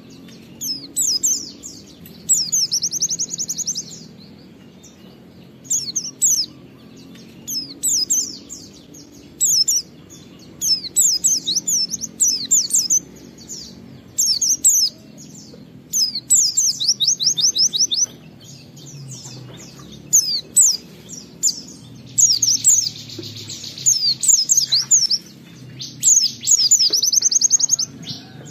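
White-eye (pleci) singing: high, rapid bursts of chirps and fast trills, each a second or two long, repeated after short pauses.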